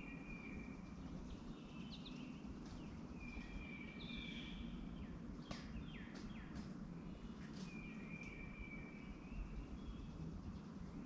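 Birds calling over a steady low background hum: several drawn-out whistled notes of about a second each, with quick down-slurred chirps between them.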